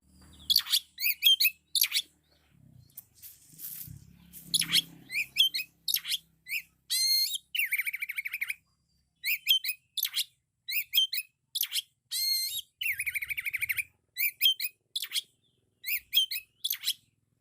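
Oriental magpie-robin (kacer) singing loudly in short, varied whistled phrases full of mimicked notes of other birds, with two rapid buzzy trills along the way.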